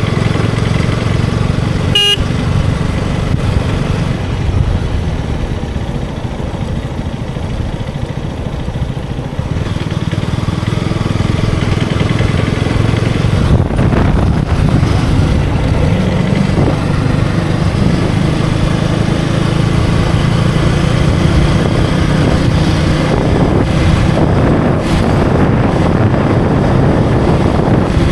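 KTM Duke 250's single-cylinder engine running under way with wind and road noise, easing off for a few seconds before picking up again. A short vehicle horn toot sounds about two seconds in.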